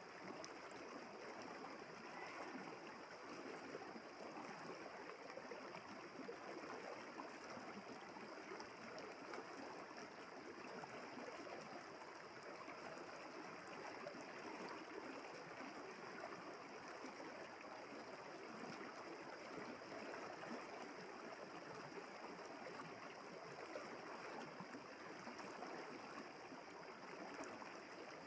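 River water flowing: a faint, steady rush of running water.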